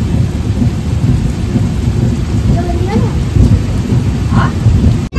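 Passenger train running at speed: a steady, loud low rumble, with faint voices in the background.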